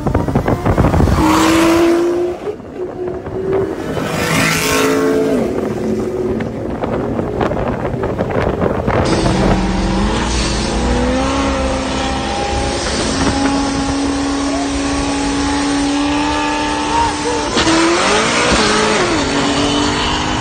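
Street-race cars at full throttle, the engine pitch climbing and stepping through gear shifts, with surges of noise as cars go past.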